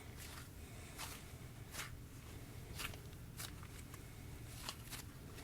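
Slime with sprinkles mixed in being squeezed and stretched by hand, giving faint, irregular sticky clicks and pops, roughly one or two a second.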